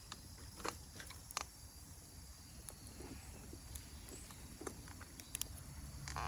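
Campfire crackling faintly, with a few scattered sharp pops.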